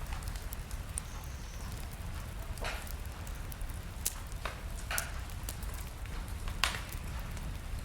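Wood fire burning in a fireplace: a steady low rumble of flames with scattered sharp crackles and pops, a few seconds apart.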